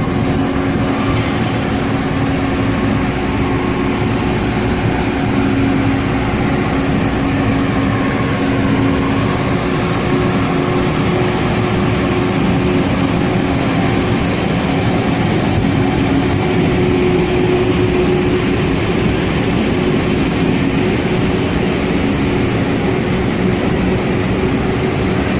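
Taiwan Railway train running, a steady loud noise with a low steady hum through it and no breaks or pauses.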